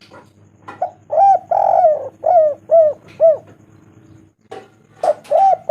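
Spotted dove cooing: a phrase of five arched coos, the second one drawn out, then another phrase beginning near the end.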